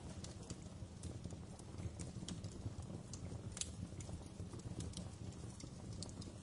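Fireplace fire burning: a steady low rumble with irregular sharp crackles and pops.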